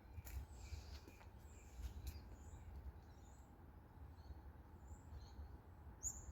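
Faint, scattered high bird chirps over a steady low rumble of outdoor background noise.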